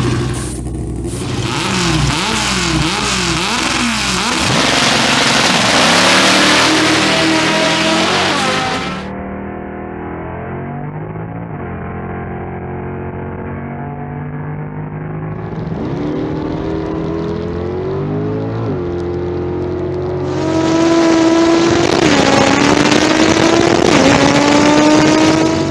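Drag-race car engines revving and accelerating hard at full throttle. The pitch is first blipped up and down, then climbs in long rises, each broken by a sudden drop as the car shifts gear.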